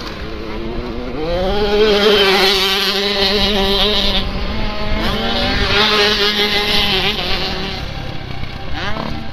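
Motocross motorcycle engine revving: the pitch climbs about a second in and holds high, then eases off and drops near the end.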